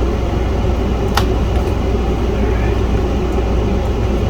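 Steady low background hum with a single sharp click a little over a second in.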